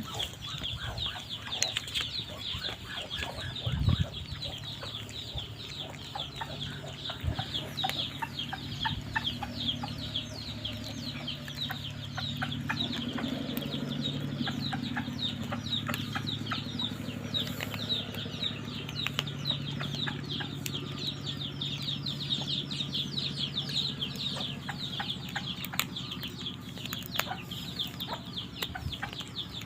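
Chickens clucking and calling, with a dense run of short high calls throughout. There is a single thump about four seconds in.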